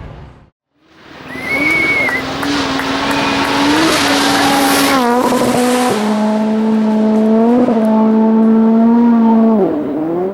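Mercedes SLS AMG GT3 race car's V8 engine running hard, its note holding steady and stepping down in pitch with gear changes about five and six seconds in, then dipping sharply and recovering near the end. It starts after a short gap of silence, with a brief high squeal about a second and a half in.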